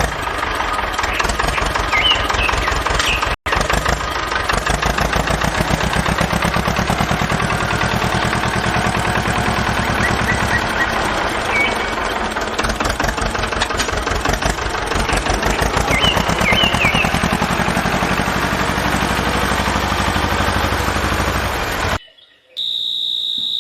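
A motor engine running steadily with a fast, even pulse, cutting out for an instant a few seconds in.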